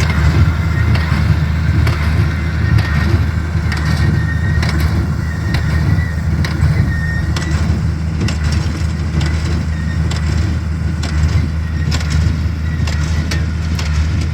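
Tractor engine running steadily under load, with scattered light clicks over it.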